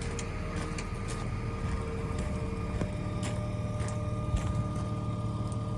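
Terex TA400 dump truck's six-cylinder diesel engine idling steadily, with a few faint clicks over it.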